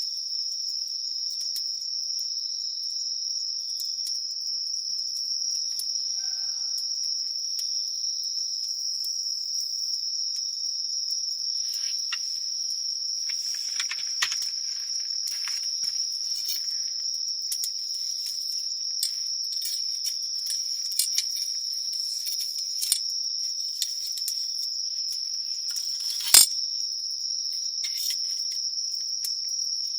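A steady, high-pitched chorus of singing insects such as crickets, with the light, irregular crackle of a wood campfire over it. Near the end a single sharp crack is the loudest sound.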